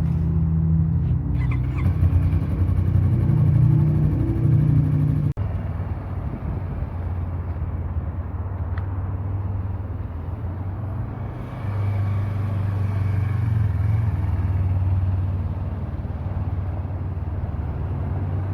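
Motorcycle engine running steadily with a low rumble, breaking off abruptly and resuming about five seconds in, its note lifting a little around twelve seconds in.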